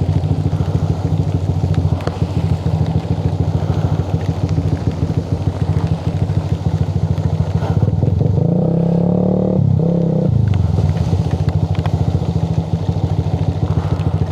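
Motorcycle engine running while riding. About eight seconds in the engine note rises for roughly two seconds, then settles back to its steady pitch.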